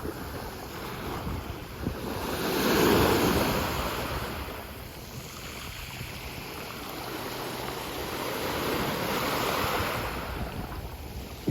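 Sea waves washing in, with wind on the microphone; the surf swells louder about three seconds in and again near the end.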